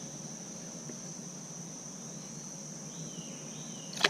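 Insects trilling, a steady high-pitched tone that does not let up. Near the end there is a brief faint chirp, and a sharp knock comes right at the very end.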